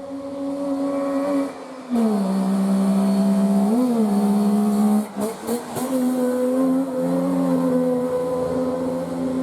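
Rally car engine running hard at high revs, its pitch holding, then dropping sharply about two seconds in, with a few sharp cracks and brief breaks around five seconds in.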